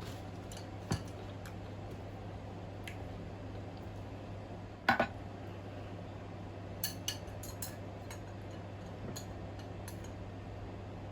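Cutlery clinking against a bowl while eating noodles: scattered light clicks, a louder double clink about five seconds in, and a quick run of clinks around seven seconds.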